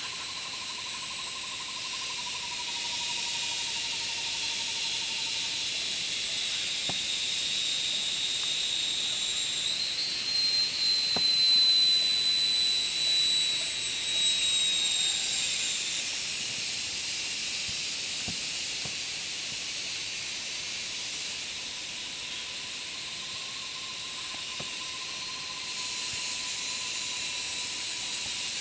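Jungle insects, cicadas, keeping up a continuous high-pitched shrill drone that swells louder for several seconds in the middle. A lower, fainter warbling trill runs under it near the start and again near the end.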